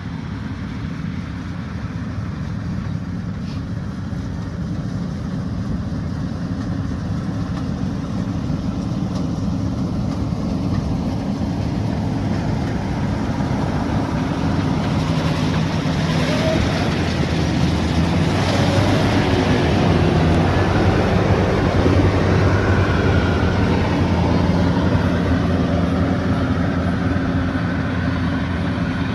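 Combine harvester's diesel engine running steadily under harvesting load, growing louder for a while and then easing slightly.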